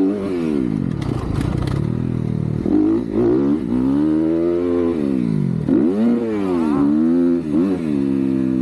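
Dirt bike engine being ridden hard, its pitch climbing and dropping again and again as the throttle is opened and shut.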